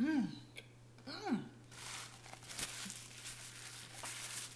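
A person chewing a last bite of chicken McNugget close to the microphone. There are two short hums of enjoyment, each rising and then falling in pitch, at the start and about a second in, followed by a run of soft chewing and mouth clicks.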